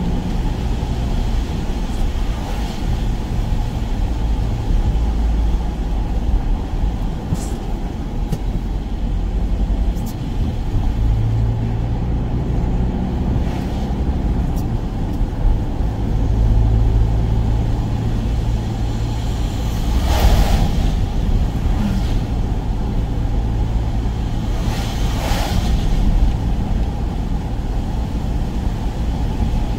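A van driving, with a steady low engine hum and road noise throughout. Two brief hissing swells come about twenty and twenty-five seconds in.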